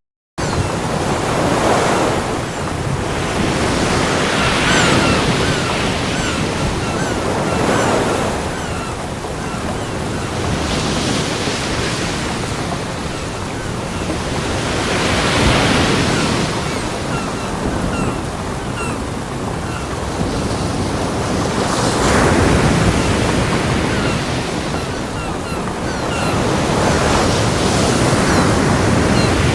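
Ocean surf breaking on a beach, a steady wash of water that swells and eases every few seconds as waves come in. It starts after a split-second gap of silence.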